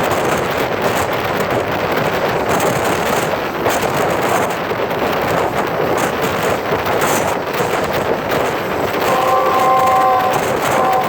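Train passing at speed with a steady rush of rapid wheel-on-rail clatter and wind on the microphone. About nine seconds in, a steady chord of several tones sounds for a second or two, then again briefly near the end.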